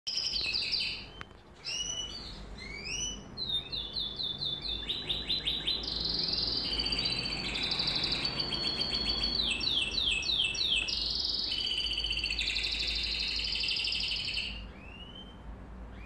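Songbirds chirping and singing, with quick runs of repeated notes and trills that overlap in a busy chorus through the middle, thinning out near the end to a few single falling chirps.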